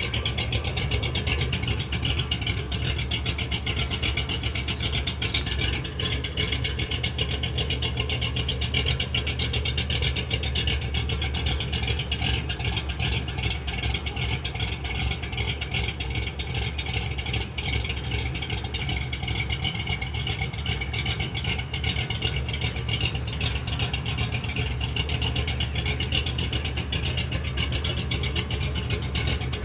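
Ford 302 small-block V8 running steadily at idle through true dual exhaust with cheap single-chamber mufflers dumped before the rear axle, a constant low exhaust note with no revving.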